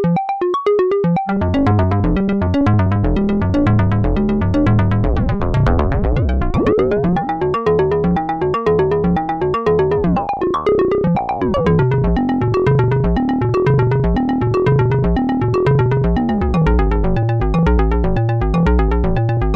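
Semi-modular analog percussion synthesizer playing a sequenced drum pattern: a fast, even stream of short pitched hits, with a deep low part coming in about a second in. Pitches sweep up and down in the middle, as the filter and pitch settings are turned.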